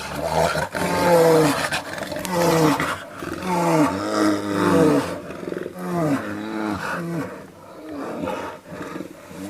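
Brown bears roaring at each other in a fight: a series of short pitched roars about a second apart, growing fainter near the end.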